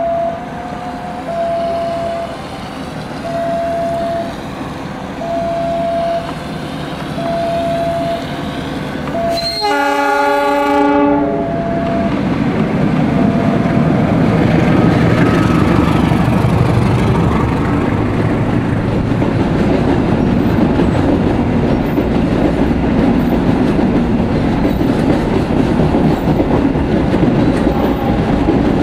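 A level-crossing warning bell sounds a single tone about once a second as a diesel locomotive approaches; about ten seconds in the locomotive blows its horn, a chord of several tones, for about two seconds. Then the freight train runs past, a heavy rumble with wheels clacking over the rail joints.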